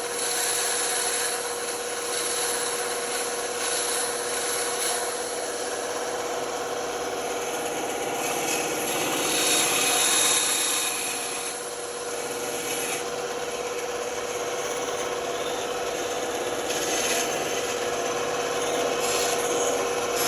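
Band saw running with its blade cutting through wood: a steady motor hum under the continuous noise of the cut, which swells around ten seconds in.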